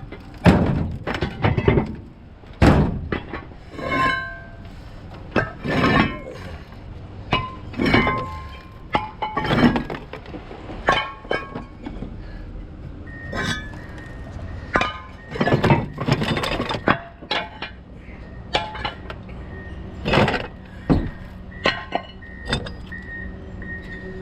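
Metal truck body being smashed for scrap: irregular heavy crashes and clanks, about two a second at times, some leaving a short metallic ring, with breaking and clinking mixed in.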